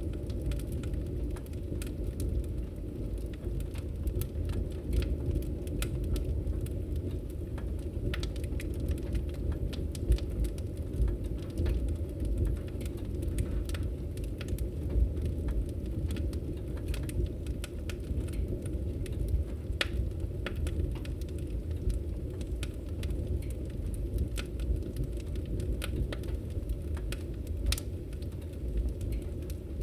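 Wood campfire crackling, with frequent sharp irregular pops over a steady low rushing sound.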